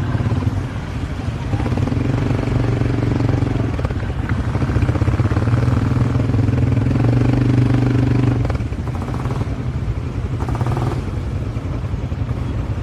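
Small ATV engine running steadily, then easing off slightly about eight seconds in.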